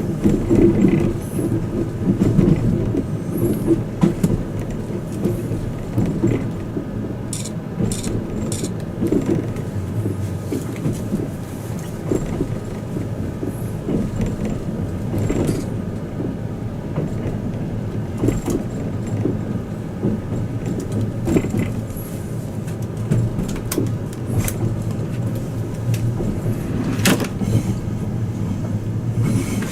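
Inside a carriage of the Twilight Express Mizukaze luxury train running along the line: a steady low rumble from the wheels and running gear, with many small clicks and knocks and one sharper knock near the end.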